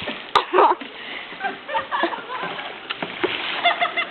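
Water splashing as canoeists splash one another in a water fight, with shouting voices mixed in.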